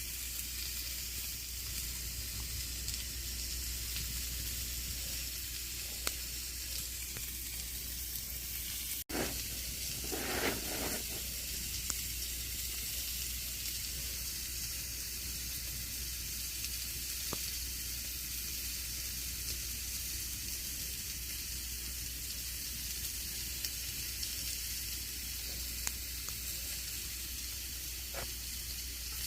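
Campfire burning with a steady hissing crackle and scattered sharp pops. There is a brief break about nine seconds in, then a short louder rush about ten seconds in.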